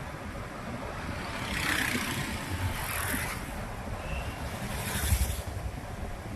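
Road traffic heard from a moving motorbike: a steady low rumble with road and wind noise, and two vehicles swelling past close by, about two seconds in and again about five seconds in.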